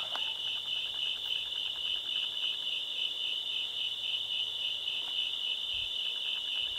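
Crickets chirping in a steady, high-pitched chorus, with fainter runs of rapid ticking from another night insect or frog.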